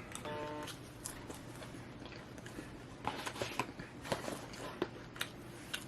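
Close-up eating sounds: a person biting into and chewing a fried fish sandwich, with scattered crunchy clicks from the breading, most of them a few seconds in.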